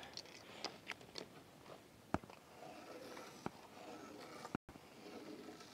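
Nearly quiet room tone with a handful of faint, sharp clicks and ticks, one of them about two seconds in.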